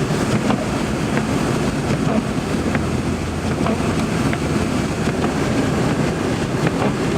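Steady engine and road noise inside the cabin of a 2002 Kia Sportage driving on a snowy road: a constant low hum under an even rushing noise, with a few faint ticks.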